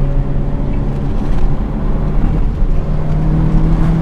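Second-generation Mitsubishi Eclipse's engine pulling under a constant low road rumble while it is driven hard through canyon corners. Its note drops away about a second in and comes back at a higher pitch near three seconds in.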